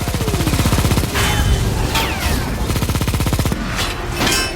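Rapid automatic cannon fire from fighter jets in a film battle mix: a fast, continuous stutter of shots lasting about three and a half seconds, with falling whooshes of passing jets over it and another short burst near the end.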